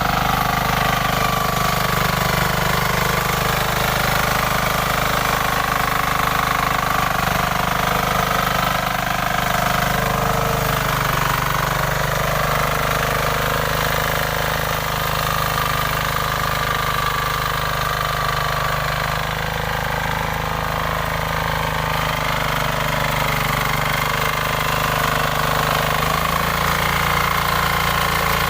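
Power weeder's small engine running steadily, its pitch shifting slightly about twelve seconds in and again near the end.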